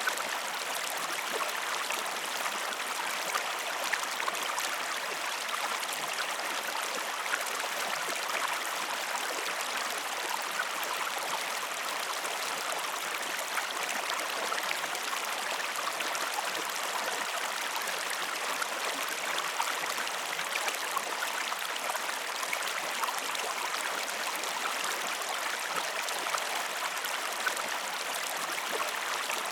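Flowing stream water, a steady, even rush that does not change.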